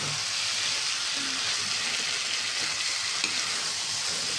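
Potatoes in a thick spice paste sizzling in hot oil in a kadai as a slotted metal spatula stirs them, with a steady hiss and faint clicks of the spatula against the pan.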